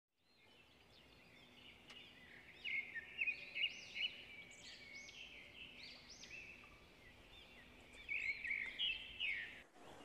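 Forest birds singing: a run of short, high, repeated chirping phrases that fades in at the start and cuts off abruptly just before the end.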